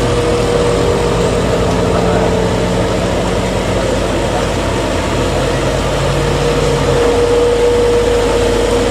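Vehicle engine running steadily, with a low hum that shifts in pitch about halfway through and a steady whine that fades in the middle and returns strongly near the end.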